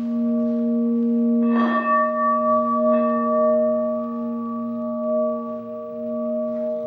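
Pink quartz crystal singing bowls ringing together, several steady tones layered with a slow wavering pulse. About a second and a half in a bowl is struck or set singing again, adding a brighter upper tone, with a softer touch about a second later.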